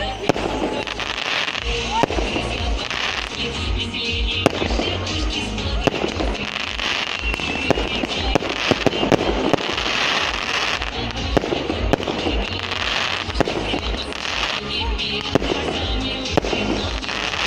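Festive fireworks display: a dense, continuous string of bangs and crackling bursts from launched shells, with music playing underneath.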